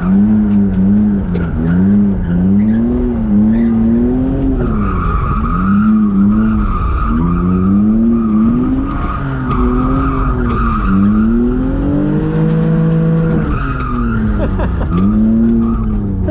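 BMW E46 drift car's engine revving up and down over and over as it drifts, with tyres squealing from about five seconds in until near the end.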